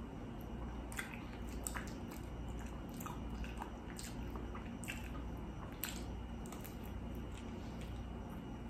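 Close-up wet chewing and mouth sounds of a person eating, with irregular soft smacks and clicks about once a second, over a steady low hum.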